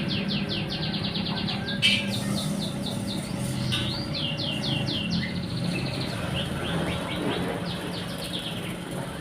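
A bird chirping in quick runs of short falling notes, about ten a second, over a low steady hum.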